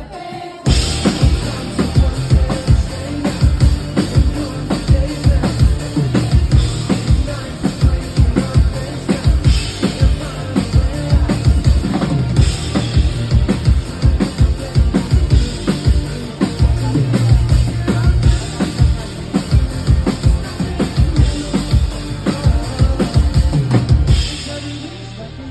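Live pop band music driven by a drum kit, with kick and snare hits in a steady beat over a bass line. The band drops out briefly right at the start and thins out near the end.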